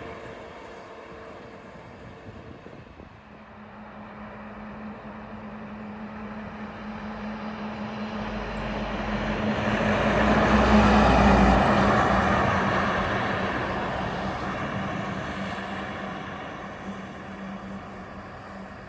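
A large truck drives past, its engine and tyre noise building for about ten seconds, peaking, then fading away.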